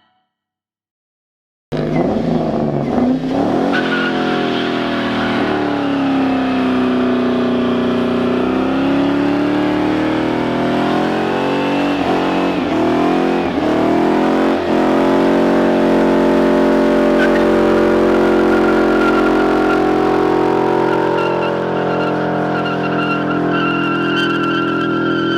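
A car engine revving hard, its pitch dipping and climbing, then held at high revs with the tyres squealing, as in a burnout or a hard launch. There are a few sharp pops partway through. The first couple of seconds are silent.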